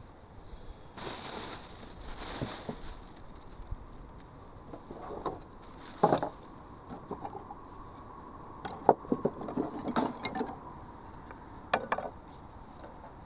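Camp gear being handled: rustling bursts, then a scatter of light clicks and knocks of hard objects.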